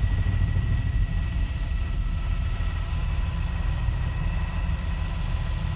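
Helicopter in flight: a steady low drone of rotor and engine, with a few faint steady high tones over it.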